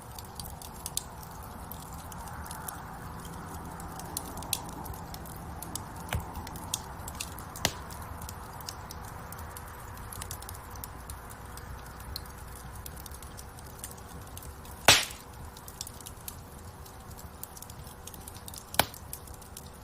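Wood fire in a fireplace crackling: many small scattered pops over a steady hiss of burning, with a loud pop about fifteen seconds in and another near the end.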